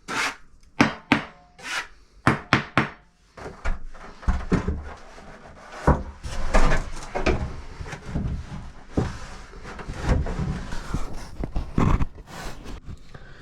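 Mortar mud being scooped and packed into a mud bed for a shower base: a quick series of sharp scrapes and slaps in the first few seconds, then a denser run of scraping, rubbing and knocks.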